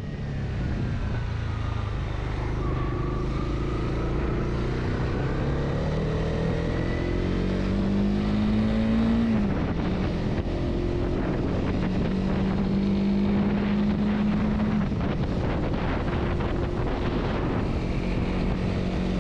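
Honda CB300R's single-cylinder engine pulling away, its pitch rising for several seconds. About nine seconds in the pitch drops sharply at a gear change, and the engine then runs steadily at cruising speed.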